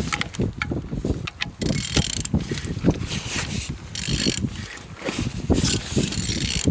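Toyota 1ND-TV 1.4-litre four-cylinder turbodiesel being turned over by hand at the crankshaft: an uneven run of mechanical clicks and rasping strokes from the tool and the turning engine. The engine turns freely, a sign that it is not seized.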